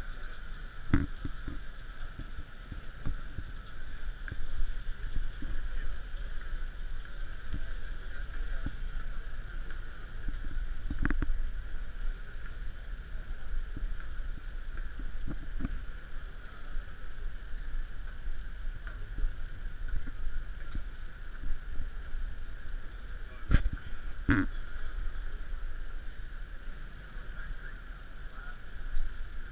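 Steady background noise of a busy expo floor, a low rumble with a faint murmur, broken by a few sharp knocks: one about a second in, one about eleven seconds in, and two close together near twenty-four seconds.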